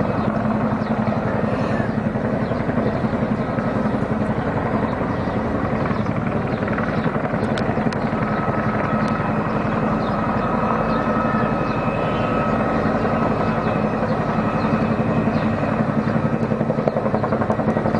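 Military helicopter hovering close by: a steady, unbroken rotor chop with engine noise, joined by a thin steady whine about halfway through.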